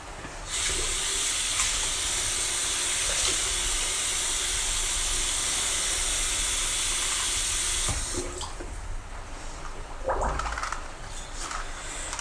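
Tap running into a sink in a steady stream, turned off about eight seconds in, after tooth-brushing; small knocks and handling sounds follow.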